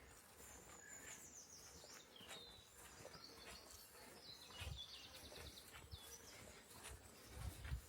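Faint outdoor ambience with a small songbird singing two high trilled phrases that step downward in pitch. A couple of dull low bumps come through, one about midway and a louder one near the end.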